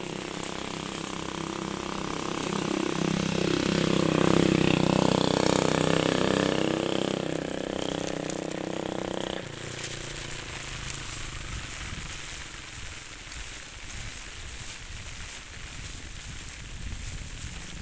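A small engine running and rising in pitch, loudest through the middle, then cutting off suddenly about nine seconds in. A steady hiss of rain is left afterwards.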